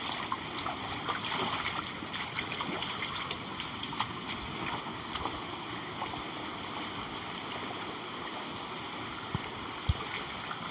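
Rainwater running fast through an overflowing drain channel: a steady rush of water with many small splashes. Two dull thumps near the end.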